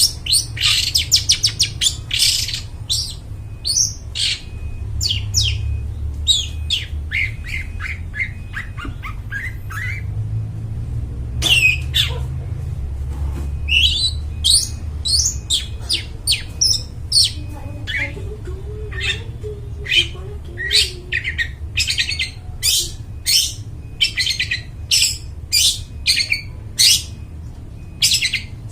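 Long-tailed shrike singing a fast, varied song of short chirps and downward-sliding notes in quick runs with brief pauses, with a steady low rumble underneath.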